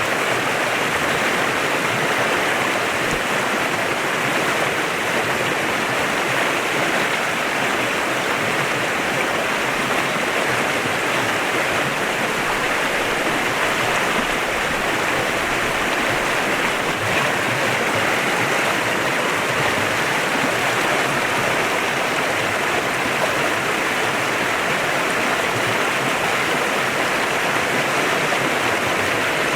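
Mountain stream flowing steadily, a constant rushing of water over rocks.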